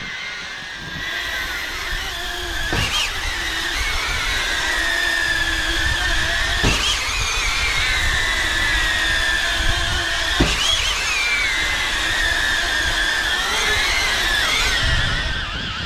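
Xpert Guard X8 caged drone in flight, its propellers giving a steady whine whose pitch wavers as the motors adjust. Three short knocks cut through it, about four seconds apart.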